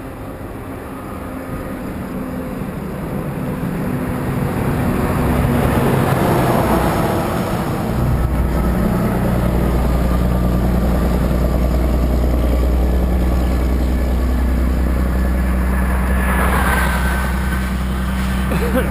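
Motor traffic passing on the highway, growing louder to a close pass about six seconds in, then a steady low rumble that runs on to the end.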